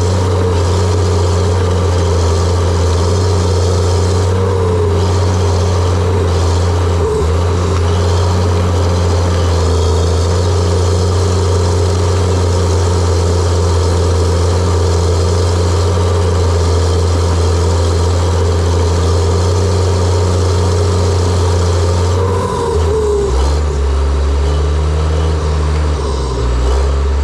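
John Deere 700J-II crawler dozer running steadily with a loud low hum and a higher whine that wavers now and then. Its note shifts and becomes less even about 22 seconds in.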